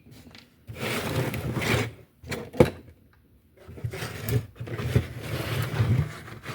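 Carrera BMW M1 Procar slot car running on a test track, its small electric motor buzzing and the car rattling along the track in two spells, with a pause of about a second and a half between them.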